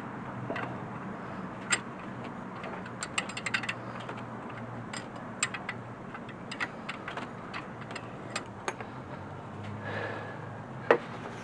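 Hand socket ratchet clicking in short, irregular runs, with metal-on-metal clinks of tools, while working at an alternator mounting bolt. A single sharper metal knock comes near the end.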